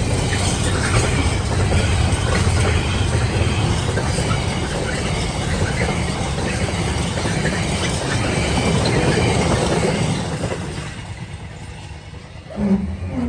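Container wagons of an intermodal freight train rumbling and clattering over the level crossing, fading away about ten seconds in as the last wagon clears. Near the end, a short sharp sound and a steady tone begin.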